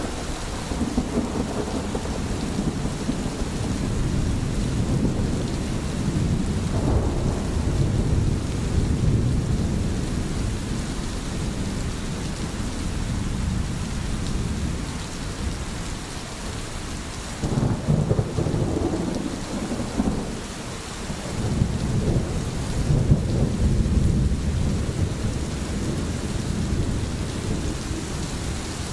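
Steady rain falling, with a deep rumble of rolling thunder underneath that swells and fades several times.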